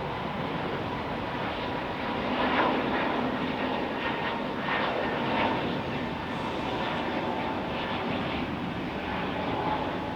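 Airliner engines running: a steady rush with faint steady tones, swelling briefly a couple of times.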